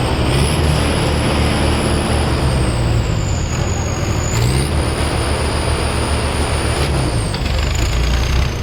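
Tractor diesel engines running hard under heavy load as two tractors pull against each other in a tug-of-war, held at a standstill. A thin, high whine rises about half a second in, sinks, then rises again about four and a half seconds in.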